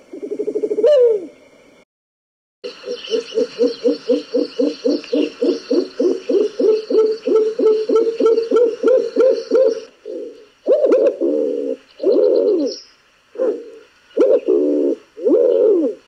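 Recorded bird calls, each a low hooting voice. One call ends about two seconds in. After a short gap a second bird gives a fast series of low hoots, about four a second, for some seven seconds, then several separate wavering hoots.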